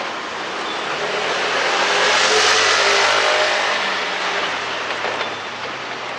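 A vehicle passes on a wet road, its tyre hiss swelling to a peak about two and a half seconds in and then fading, over steady rain.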